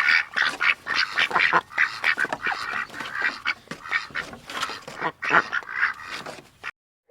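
Ducks quacking: a rapid run of many overlapping rasping calls that stops abruptly near the end.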